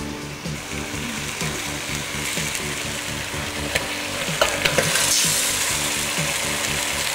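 Beef and onion frying and sizzling in hot olive oil in a steel pot, stirred with a wooden spoon that knocks a few times against the pot about four seconds in. The sizzle grows louder near the end as tomato passata is poured in.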